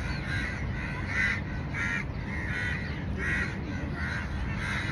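A bird calling over and over, about eight short calls in five seconds, with wind rumbling on the microphone underneath.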